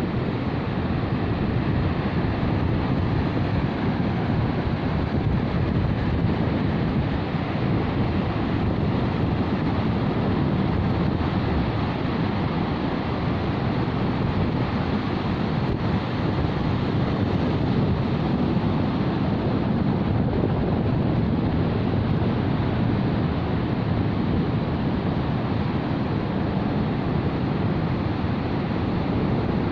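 Sea waves washing on the shore with steady wind buffeting the microphone.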